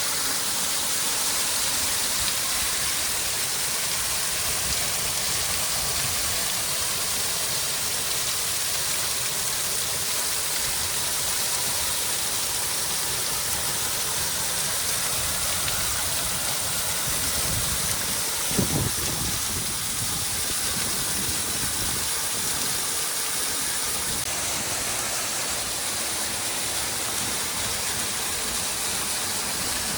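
Mountain water rushing over rocks, a steady hiss of falling water. There is a single brief dull thump about two-thirds of the way through.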